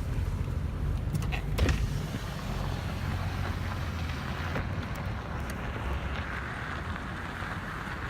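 Car driving slowly while turning around, heard from inside with a window rolled down: a steady low engine and road rumble, two sharp clicks a little over a second in, and a rising rush of air and tyre noise from about six seconds on.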